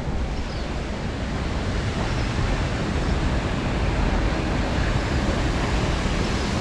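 Steady rush of flowing water from a creek spillway, an even noise without breaks or changes.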